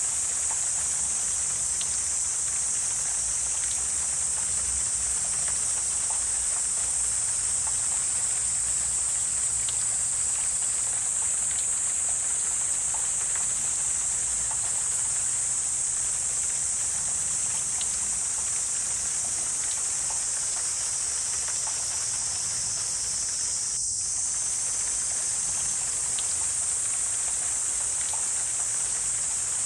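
Steady, high-pitched chorus of insects in a wetland soundscape, with faint scattered ticks beneath it.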